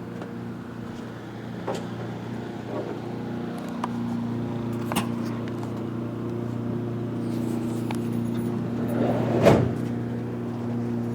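A steady low mechanical hum, a little stronger from about four seconds in, with a few sharp clicks and knocks on top; the loudest knock comes near the end.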